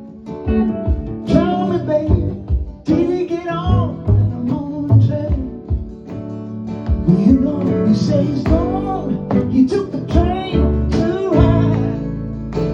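Acoustic guitar music, plucked and strummed, in a wordless passage of a blues song. Melody notes glide and bend in pitch over the sustained chords.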